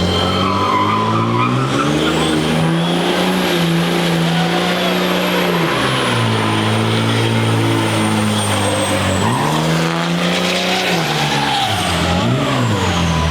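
Pickup truck engine held at high revs during a burnout, over the hiss of spinning tyres. The revs climb early, ease down about six seconds in, then rise again, with a brief dip near the end; a faint high whine rises and falls along with them.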